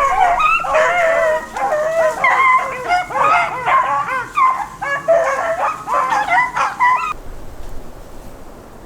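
A pack of beagles baying in overlapping voices while running a rabbit on its scent, until the sound cuts off suddenly about seven seconds in.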